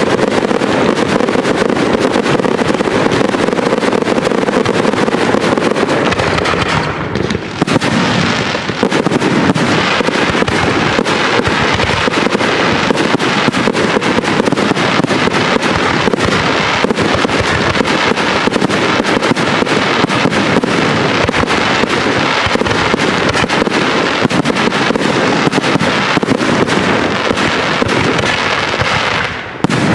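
Professional aerial fireworks display: a dense, continuous barrage of shell bursts and crackling, with a brief lull about seven seconds in.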